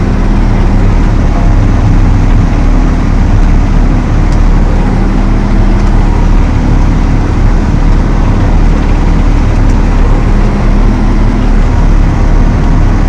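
Valtra T214 tractor's six-cylinder diesel engine running steadily.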